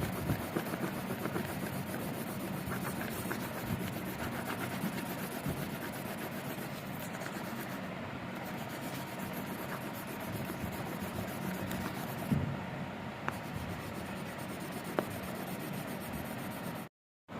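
Drawing and colouring on paper: steady rubbing and scratching over a faint constant hum, with a few small clicks, cutting out briefly near the end.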